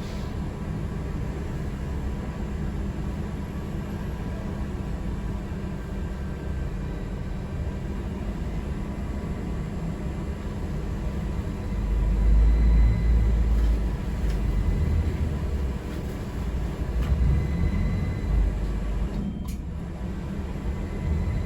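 Riding inside a city transit vehicle: steady low rumble of the moving vehicle, swelling louder about twelve seconds in and again a little later.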